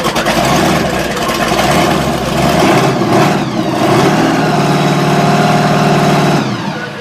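Monster truck engines running loud, with one engine held at a steady revving pitch for about two seconds in the second half before dropping away near the end.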